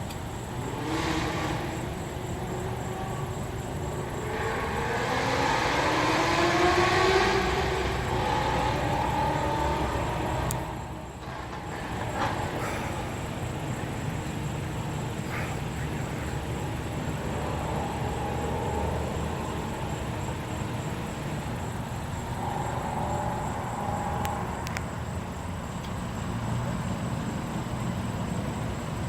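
Ford Shelby GT350's 5.2-litre flat-plane-crank V8, breathing through Kooks headers and exhaust, accelerating hard from a standstill. Its pitch climbs in several rising sweeps as it shifts up, loudest about seven seconds in, then fades out. Steady traffic noise follows.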